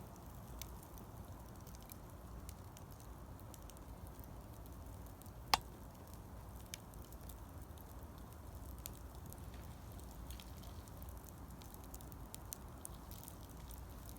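Wood fire burning, with scattered small crackles over a low steady rumble and one sharp, louder pop about five and a half seconds in.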